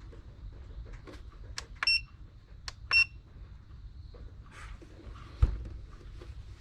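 ALLPOWERS S500 portable power station beeping twice, short high beeps about two and three seconds in, each just after a sharp click of a button being pressed as its switches are turned on. A dull thump near the end.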